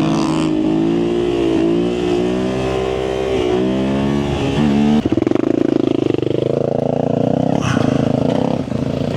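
Yamaha Tenere 700's parallel-twin engine, fitted with an aftermarket high exhaust, revving up and down while riding off-road. About five seconds in it changes abruptly to a louder, rising acceleration.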